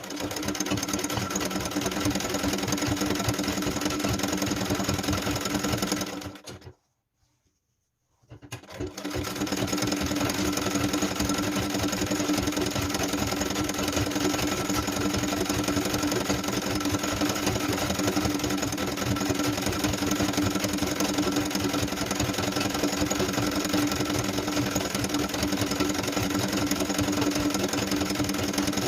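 Sewing machine stitching embroidery at a steady fast speed. It stops about six seconds in and starts again a couple of seconds later, picking up speed and running on steadily.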